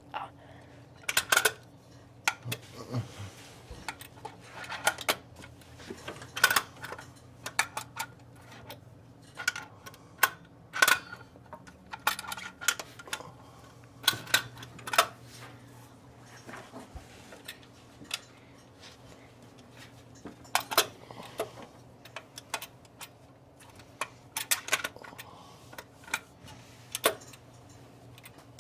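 Irregular metallic clinks and knocks of hands and tools working a replacement distributor down into its seat on a 1970 Chevy C10 engine, the drive gear not yet meshing so it won't sit flush.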